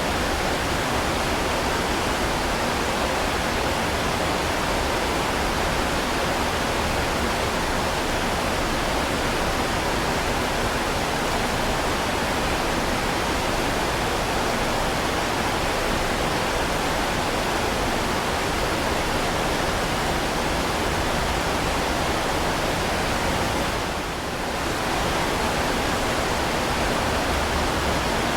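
Heavy rain falling as a steady, dense hiss, with one brief dip in level near the end.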